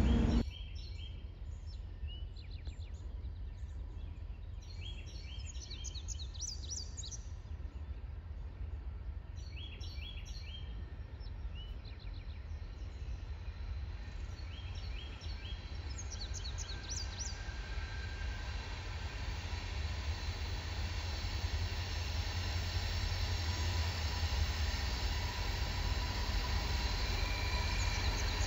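Birds chirping over a low rumble, then an approaching diesel locomotive whose engine sound grows steadily louder through the second half.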